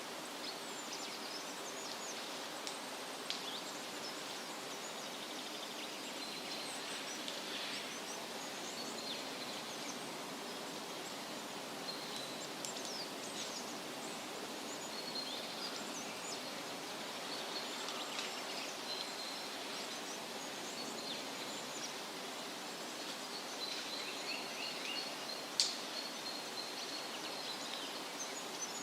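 Woodland soundscape: a steady rustle of wind through leaves, with several small birds chirping and trilling in high, short calls throughout, one sharp louder chirp near the end.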